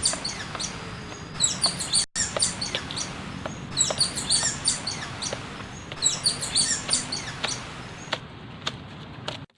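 Small birds chirping in clusters of quick high twitters that recur about every two and a half seconds over a steady low background noise. The sound drops out briefly about two seconds in.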